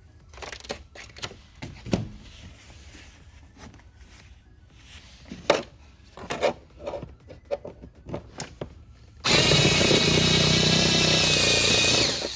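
Scattered clicks and knocks of parts being handled, then a small electric power tool runs steadily for about three seconds and stops just before the end.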